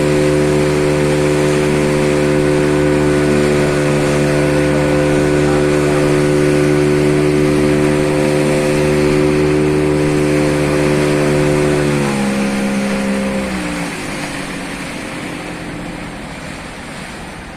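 Motorboat engine running at a steady speed, then throttled back about twelve seconds in, its pitch dropping and the sound growing quieter as the boat slows.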